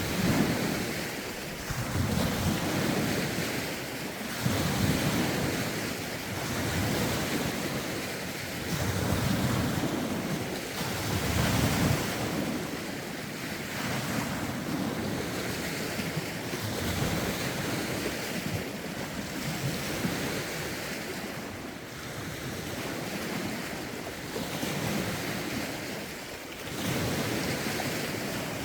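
Lake waves washing in, swelling in surges every two to three seconds, with gusty wind buffeting the phone's microphone.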